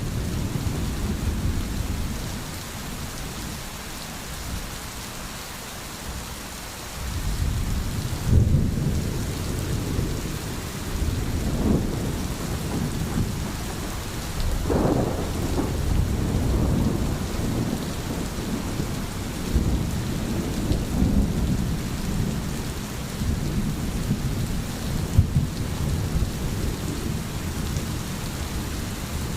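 Steady rain with rolling thunder. The low rumble eases off for a few seconds, then swells again about a quarter of the way in and keeps rolling under the rain.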